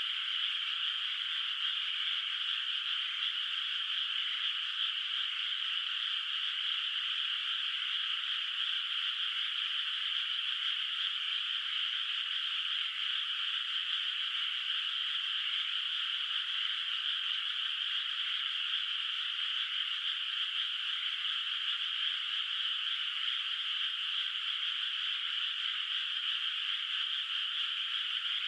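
A dense, steady chorus of many frogs calling together in a flooded rice paddy, their calls blending into a continuous high trill with no breaks.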